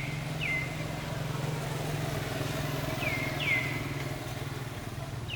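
A steady low engine hum, like a motorcycle engine running at idle. Short high chirps falling in pitch come in pairs three times over it.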